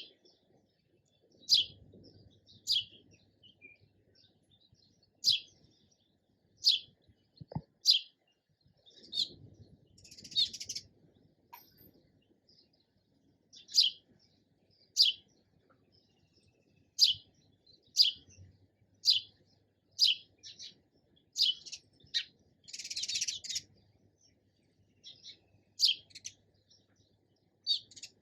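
A sparrow chirping: single short, sharp chirps repeated about once a second with pauses, and twice a longer run of quick twittering.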